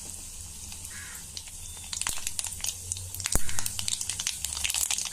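Tempering spices frying in hot oil: mustard seeds, urad dal, cinnamon and a bay leaf sizzling faintly, with scattered crackling pops that come thicker from about two seconds in.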